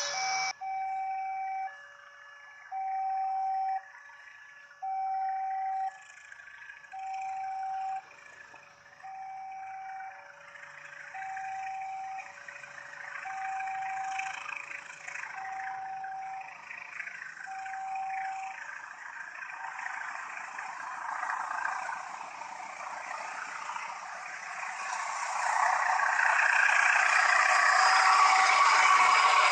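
Railway level-crossing warning alarm sounding two alternating tones, one about every second. It stops about two-thirds of the way in as the noise of an approaching train builds and grows loud near the end.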